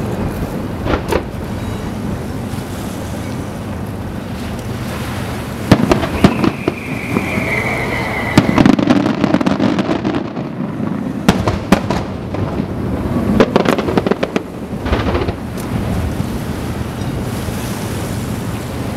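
Aerial fireworks shells bursting overhead: a series of sharp booms with echoing tails and crackle. The heaviest run of bangs comes from about six to nine seconds in and again around eleven to fifteen seconds. A high whistle falls in pitch over about two seconds during the first run.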